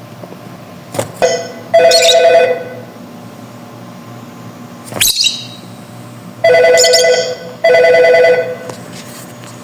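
A pet bird mimicking a telephone ring: three loud trilled, ringtone-like bursts of under a second each, with two short sharp whistles falling in pitch about a second and five seconds in.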